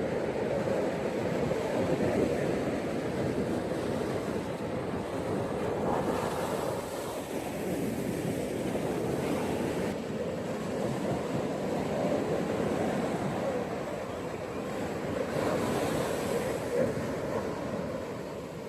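Ocean waves washing onto a beach in a continuous rush, swelling and easing as the waves come in, with a louder surge about six seconds in and again near the end.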